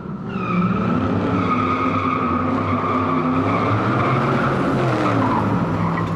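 A motor vehicle engine running with a loud, sustained high-pitched tire squeal over it, the engine pitch shifting up and down.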